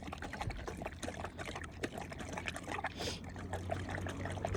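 Great Dane lapping water, a quick irregular run of small splashes and trickles.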